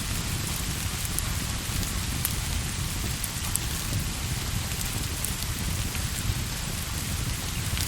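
Steady rain falling, an even hiss over a constant low rumble, with scattered faint ticks.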